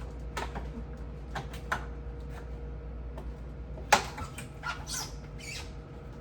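Refrigerator parts being handled and wiped during cleaning: scattered light clicks and knocks, one sharp knock about four seconds in, followed by short squeaks and scrapes, over a steady low hum.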